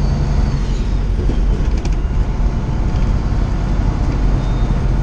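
Semi truck's diesel engine running at low speed during a slow turn, heard from inside the cab as a steady low rumble with cab rattle; the engine is running without a working turbocharger.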